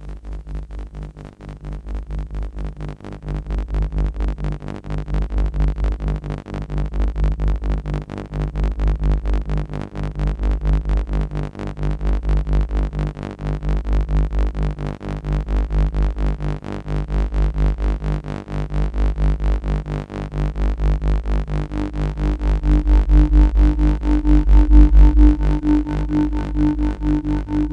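Yamaha CS-40M analog synthesizer holding one low bass note as a drone, pulsing fast under LFO and ring modulation, its loudness swelling and falling about every two seconds. A higher tone joins about three-quarters of the way through.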